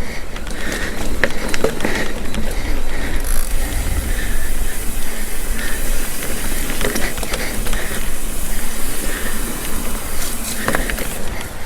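Mountain bike rolling over a dirt trail: the rear hub's freewheel ratchets in a steady buzz of clicks while coasting, over a steady rumble of tyres and wind on the microphone, with a few small knocks.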